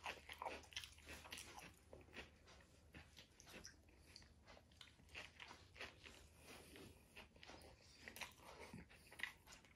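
A person chewing and biting into a crunchy tikki burger, with faint, quick, irregular crunching clicks, several a second.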